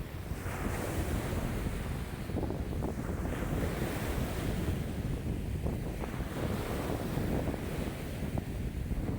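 Wind-driven waves on a lake washing in, with strong wind buffeting the microphone; a dense low rumble of water and gusts that rises and eases every second or two.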